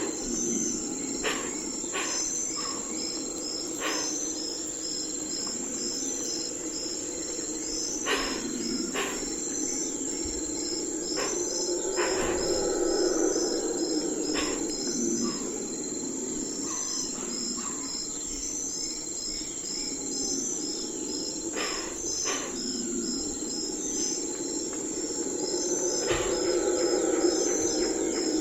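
Night forest ambience dominated by crickets and other insects: rhythmic high chirps repeating steadily over a continuous high-pitched trill, with a lower hum that swells and fades and scattered sharp clicks.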